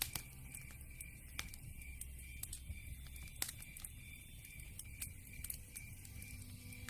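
Wood fire crackling, with irregular sharp pops over a low rumble of flames; the strongest pops come near the start, about a second and a half in, and about three and a half seconds in.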